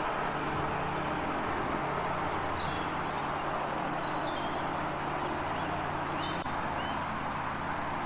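Steady background rumble of road traffic with a low motor hum, and several short, high bird chirps from about two and a half to seven seconds in.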